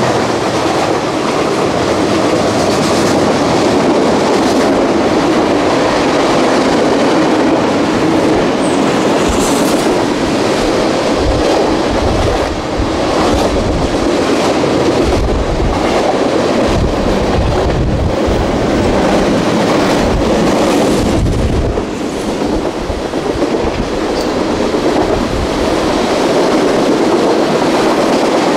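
Mixed freight train's cars (boxcars, autoracks and tank cars) rolling past directly below, a steady rumble and wheel clatter on the rails, with heavy low thumps of the wheels through the middle.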